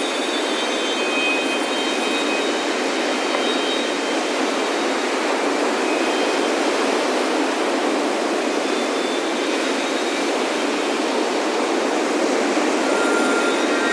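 Ocean surf washing onto a beach as a continuous, even rush. Faint wind chime tones ring around the start and again near the end.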